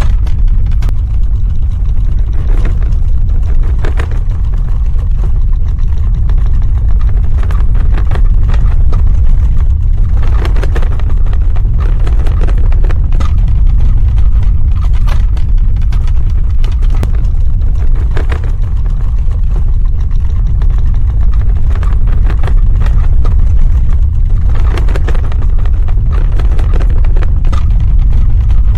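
Earthquake rumble sound effect: a loud, steady deep rumble with short crackles and rattles scattered through it.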